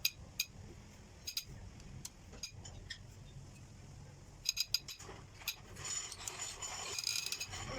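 Light metallic clinks and taps of tools and engine parts being handled: scattered single strikes, a quick cluster of clinks about four and a half seconds in, and a faint rustle near the end.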